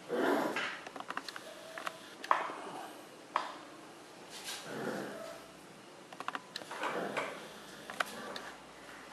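Bullmastiff puppies snuffling and breathing, a few soft breathy bursts with scattered light clicks between them.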